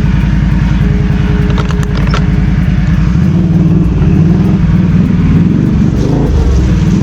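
Quad bike (ATV) engine running loud and steady while riding.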